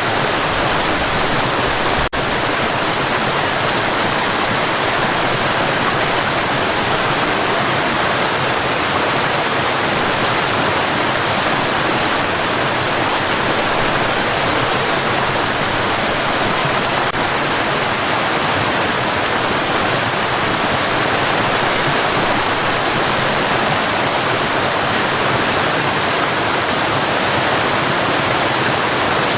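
Steady white noise: an even, unchanging hiss across the whole range, with a split-second dip about two seconds in.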